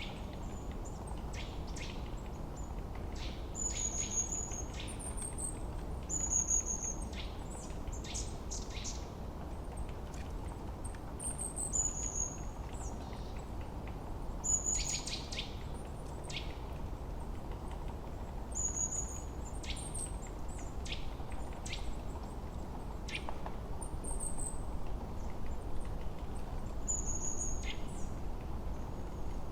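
Forest birdsong: several birds chirping, with short high whistled notes repeating every few seconds, over a steady low rush of wind.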